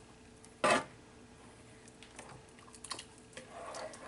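A kitchen utensil knocking once against a pan about two-thirds of a second in, then a few light clicks and a soft scrape while the cream sauce is being cooked, over a faint steady hum.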